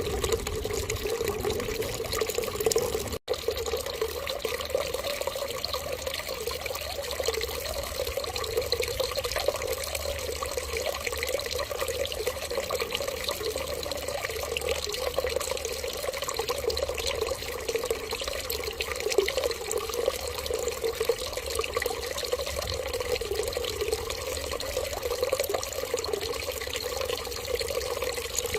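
Steady stream of running water, like a tap running, used as a sound to prompt an infant to urinate. It cuts out for an instant about three seconds in.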